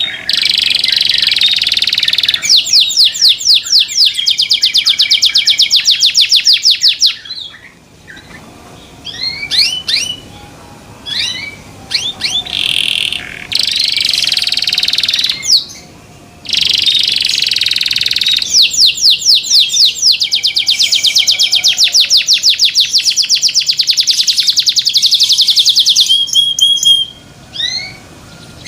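A young local canary singing loudly in high, rapid trills with chirping phrases between them: two long runs of evenly repeated notes, one in the first quarter and one after the middle. The song is not yet complete.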